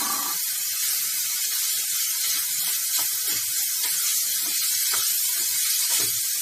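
Chopped bottle gourd, onion and crumbled paneer sizzling steadily in a hot non-stick wok. A few soft knocks come as the mixture is stirred.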